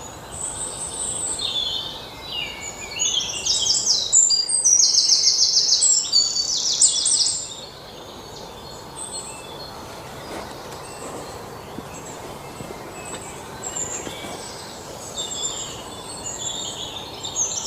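Songbirds singing: fast high trills and chirps, busy for the first several seconds, sparser through the middle, and picking up again near the end, over a steady outdoor background hiss.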